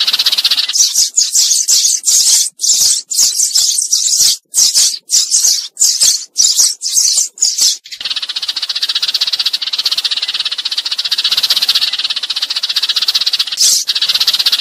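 Sparrows chirping in quick separate bursts, turning about eight seconds in into a continuous dense chatter that breaks up again near the end. This is a sparrow flock call used as a decoy to draw sparrows in for trapping.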